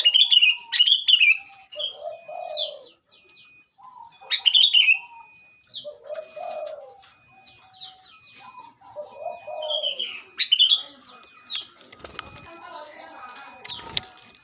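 Sooty-headed bulbul (kutilang) calls played as a lure: repeated bright, bubbly chirping phrases over lower warbled notes, with a steady series of short, even beeps. Two dull thumps come near the end.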